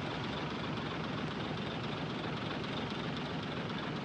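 Heavy diesel earthmoving machinery running steadily, an even engine drone with no distinct knocks or changes.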